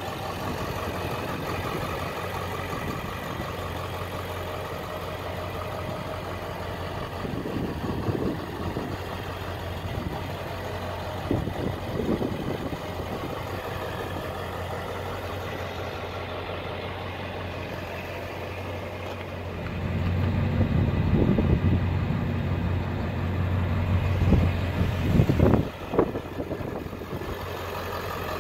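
Ford 7.3 Powerstroke V8 turbo diesel idling steadily, growing louder for several seconds about two-thirds of the way in, with a few brief louder surges.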